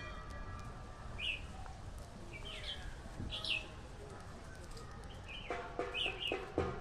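Small birds chirping: short, high calls at intervals of a second or so. Near the end, music with a steady beat comes in.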